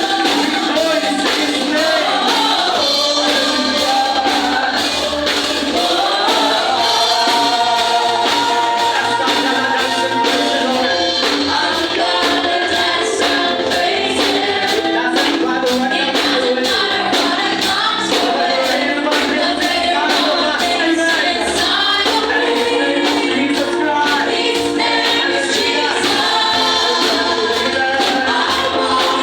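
Worship music: a group singing a gospel song with a band, tambourine or percussion keeping a steady beat.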